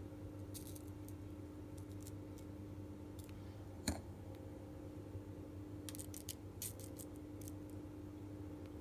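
Faint scattered clicks and light rustles of small objects being handled, with one sharper tap about four seconds in, over a steady low hum.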